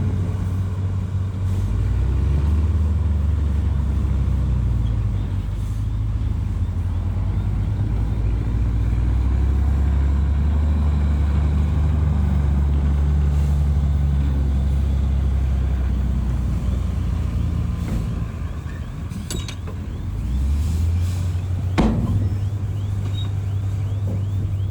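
Heavy diesel engine of a bulldozer working under load, its pitch rising and falling as the machine pushes, with a sharp knock near the end.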